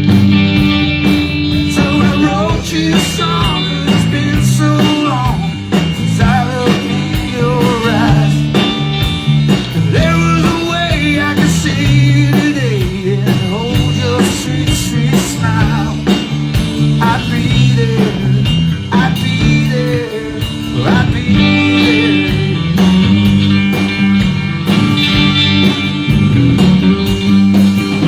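Live blues-rock band playing an instrumental passage: electric guitar lead with bending notes over a stepping bass line and steady drums.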